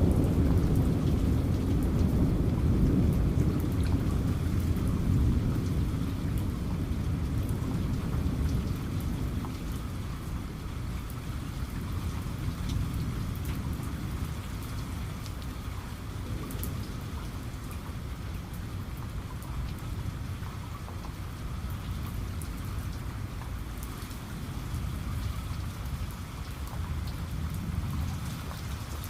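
Steady heavy rain with a low thunder rumble that rolls away, fading over the first ten seconds or so.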